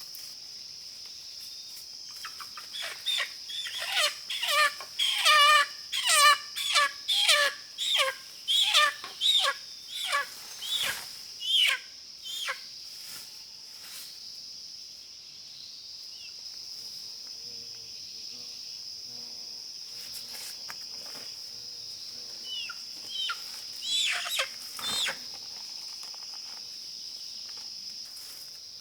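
A wild chicken giving a rapid series of loud, wavering squawks, about two a second for roughly ten seconds, then a few more near the end. Underneath is a steady high-pitched insect drone.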